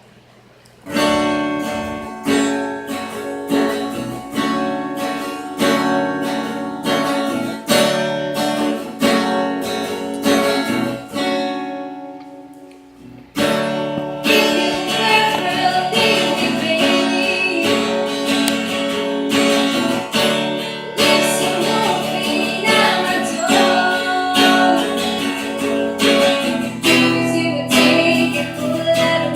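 Acoustic guitar strummed in a steady rhythm. After a short break about 13 seconds in it starts again more fully, and a voice singing comes in over it.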